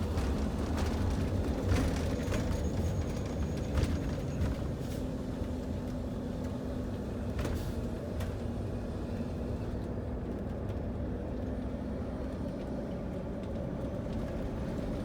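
Motorhome driving, heard from inside the cab: steady engine and road rumble with a faint hum. A few sharp clicks come in the first half.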